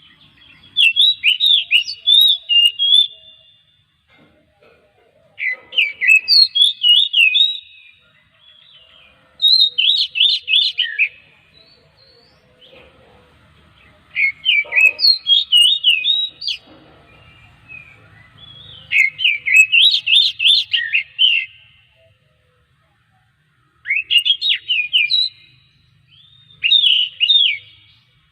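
Oriental magpie-robin (kacer) singing: about seven phrases of rapid, varied whistled notes, each lasting about two seconds, with short pauses between them.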